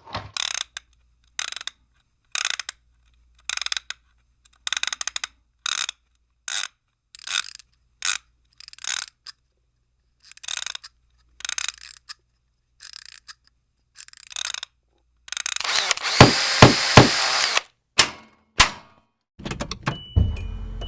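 Computer keyboard typing in short, irregular bursts, with a louder, longer burst of noise and clicks about three quarters of the way through.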